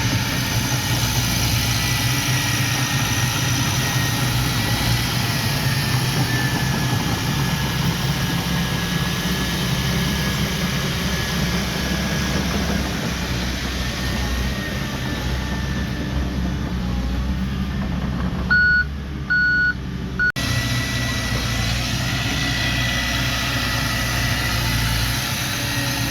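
Diesel engine of earth-moving machinery running steadily under load, with a faint whine above it. Near the end, three short reversing beeps sound while the engine noise briefly drops out.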